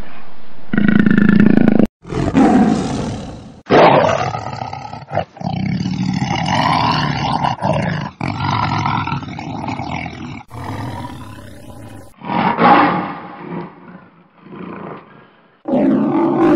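Big cats roaring in a string of short edited clips, each breaking off abruptly into the next.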